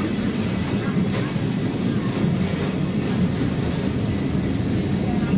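Lisbon heritage tram running along its rails, heard from on board: a steady low rumble, with a faint click about a second in.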